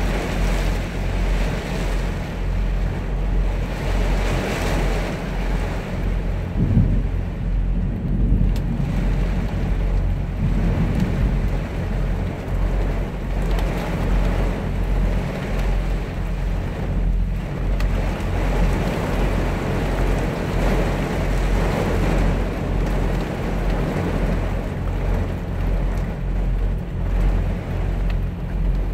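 Heavy thunderstorm rain beating on a semi-truck cab and windows, heard from inside the cab as a steady wash, with a steady low engine hum underneath.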